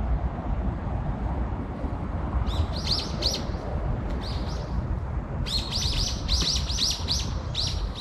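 Small songbird calling: quick, high, falling chirps, a short run of a few and then a longer run of about nine, over a steady low rumble.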